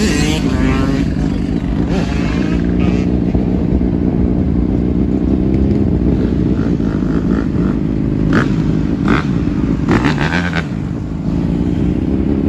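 Loud motorcycle and car engines running and being revved, their pitch rising and falling, with a few short knocks about two-thirds of the way through.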